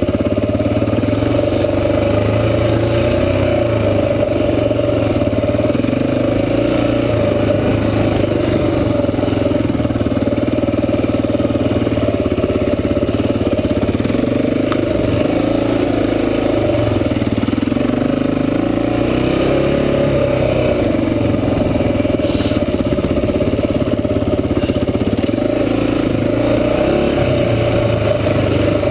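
Honda XR400 dirt bike's single-cylinder four-stroke engine running under way, its revs rising and falling again and again as the throttle is worked.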